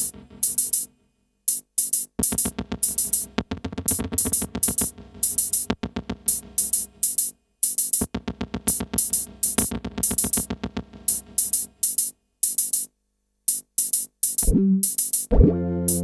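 Modular synthesizer rig playing an electronic pattern: a drum-machine beat with crisp hi-hat ticks and pitched synth notes, cutting out and back in several times. Near the end a held low synth tone comes in with a filter sweep rising steeply in pitch.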